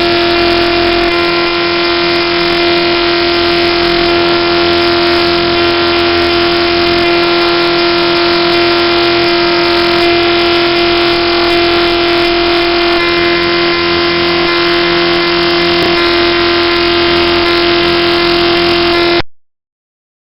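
Loud, harsh synthesized bytebeat-style noise from a GDI malware payload: a dense buzz with a steady held tone running under it. It cuts off suddenly near the end.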